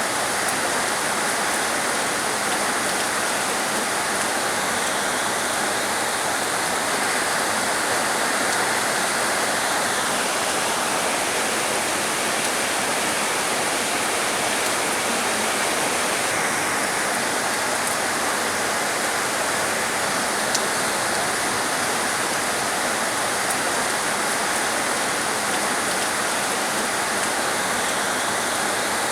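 Heavy rain falling steadily, a dense even hiss; a higher sizzling layer in it fades for a few seconds midway and comes back.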